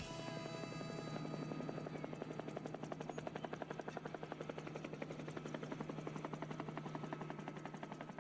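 Helicopter rotor chopping in a fast, even beat of about ten pulses a second over a steady low drone, typical of a traffic-report helicopter.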